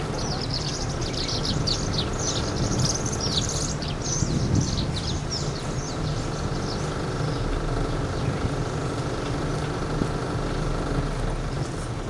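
Small birds chirping: a busy run of quick, high, falling chirps that thins out after about five seconds, over a steady low rumble.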